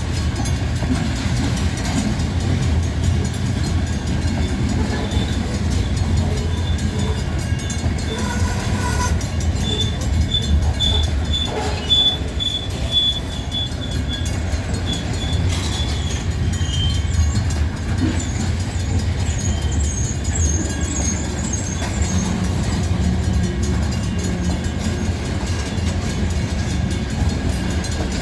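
A train rolling past with a steady low rumble, with thin high-pitched wheel squeals about ten seconds in and again around twenty seconds in.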